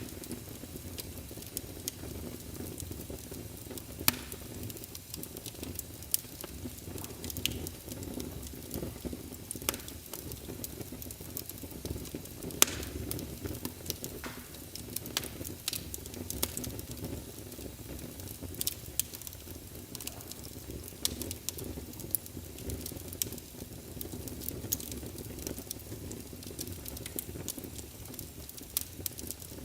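Wood fire burning in a fireplace: a steady low rumble of the burning logs with irregular sharp crackles and pops, the loudest about four seconds in and again near the middle.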